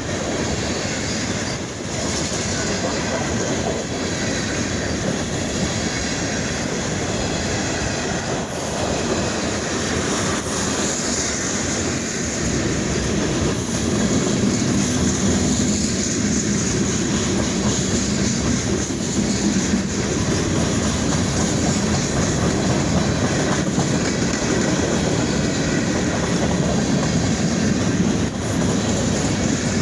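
Freight train rolling past, its wheels running on the rails in a steady, continuous noise.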